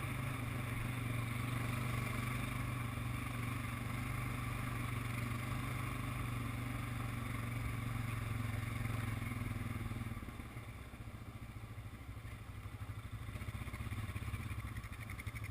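ATV engine running at a steady pace, then easing off about two-thirds of the way through, its drone dropping lower and quieter before building slightly again near the end.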